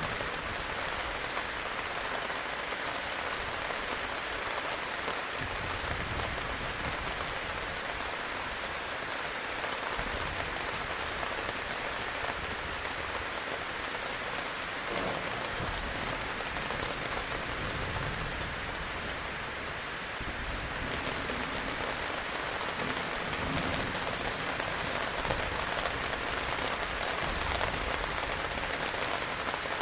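Heavy rain falling in a steady, dense hiss, with low rumbles of distant thunder coming and going underneath.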